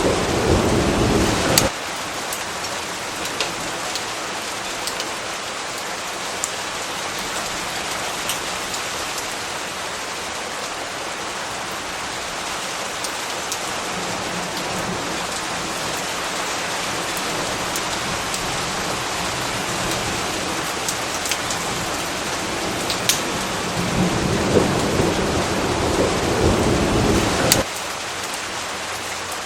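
Steady heavy rain with sharp drops pattering. Thunder rumbles low at the start and stops abruptly in under two seconds; another rumble builds about three-quarters of the way through and cuts off just as abruptly near the end.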